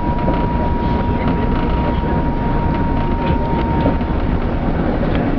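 Steady low rumble inside the cabin of an Airbus A380 moving on the ground after landing, with a thin steady high tone that stops about four seconds in.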